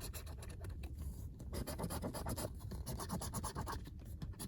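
Scratch-off lottery ticket being scratched: rapid back-and-forth strokes scraping off the latex coating, with a couple of short pauses.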